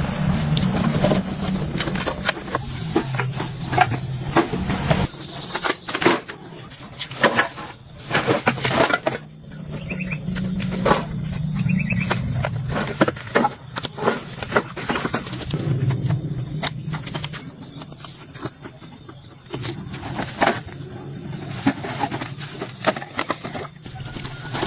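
Insects chirring steadily in a continuous high-pitched drone, with irregular clicks and knocks throughout.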